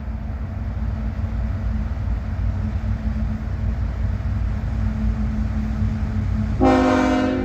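Diesel freight locomotives rumbling steadily as the train approaches slowly, then, near the end, a short blast of the locomotive's multi-tone air horn lasting under a second.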